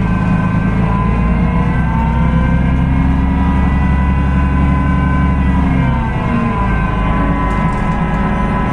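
Cummins ISB 6.7 diesel engine of a Solaris Urbino 18 hybrid articulated bus running under way: a loud steady drone with whining tones above it. About six seconds in, the engine note drops and changes.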